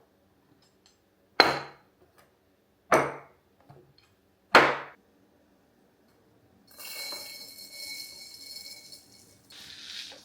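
Kitchenware being handled: three sharp, ringing knocks about a second and a half apart, then a few seconds of softer scraping noise.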